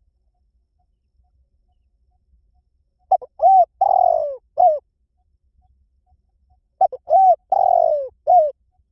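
Spotted dove cooing twice, about three and a half seconds apart. Each call is a couple of short coos, a longer falling coo and a final short coo. This is the rousing territorial call used to stir decoy doves.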